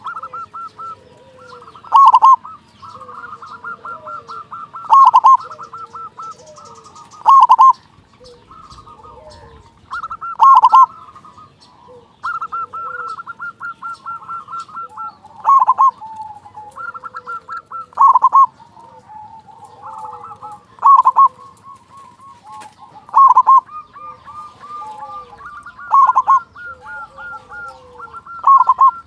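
Zebra dove (perkutut) cooing repeatedly: about ten loud bursts of rapid, stuttering notes, one every two to three seconds, with softer trilling coos in between.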